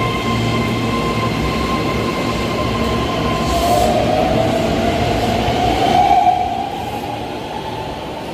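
Keihan electric train's VVVF inverter whining under power over steady running noise. A high steady tone with overtones gives way about three and a half seconds in to a lower tone that rises gently, then fades out at about six and a half seconds.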